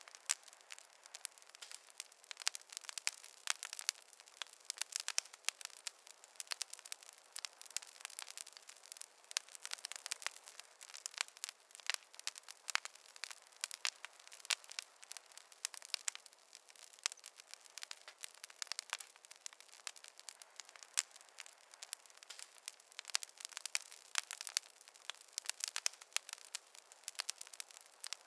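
Wood fire crackling: a dense, irregular stream of sharp pops and snaps, several a second, over a faint hiss, with no low rumble.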